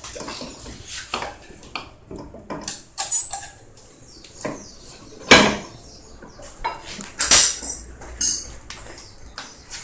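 Irregular clinks and knocks of hard objects being handled, with three louder sharp clanks spread through.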